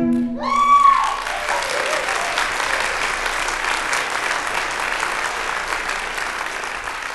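Concert audience applauding at the end of a song, with a loud whoop from one listener about half a second in; the clapping slowly dies down.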